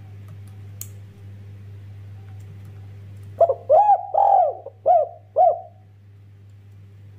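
Spotted dove (derkuku) cooing: one phrase of about five short, arched coos in quick succession, starting about halfway in, over a faint steady hum.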